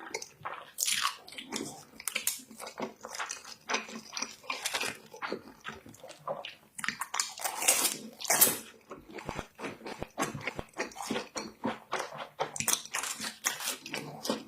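Close-up biting and chewing of crunchy fried food, with irregular crisp crunches coming several times a second.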